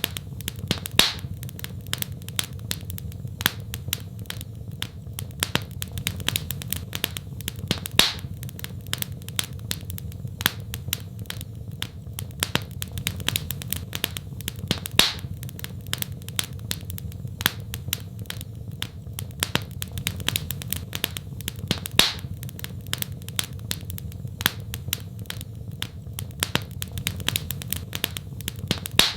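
Wood fire crackling in a fireplace: dense, sharp pops and snaps, with a louder pop about every seven seconds, over a steady low rumble.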